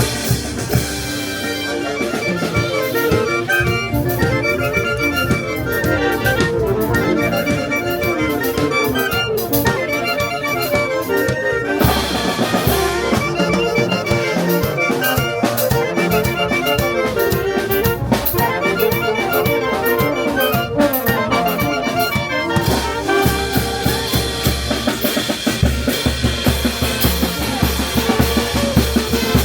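Brass band playing a tune with wind instruments over a drum beat. Near the end the horns fall back and the drums carry on alone, a steady, driving beat.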